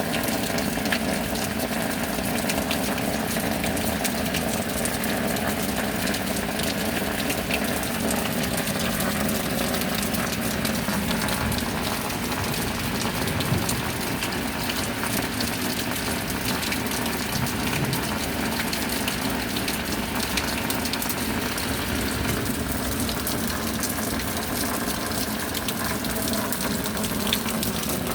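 Steady rain, a dense, even patter of drops over a constant wash of water noise.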